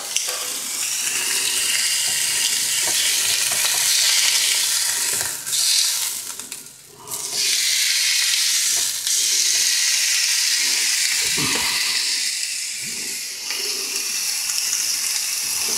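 T-bone steak sizzling in a hot frying pan, with other pans frying alongside: a steady, loud sizzle that drops away for about a second some seven seconds in.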